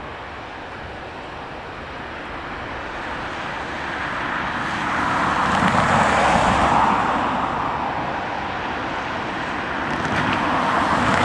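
Rushing vehicle noise that swells to a peak about six seconds in, eases off, and builds again near the end.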